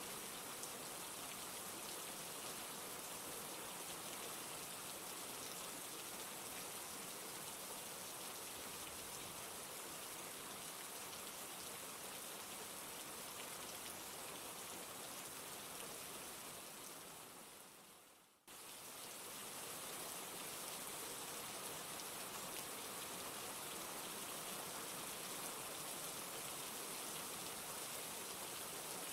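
Steady, dense rain. About two-thirds of the way through it fades away over a couple of seconds, then comes back suddenly at full strength.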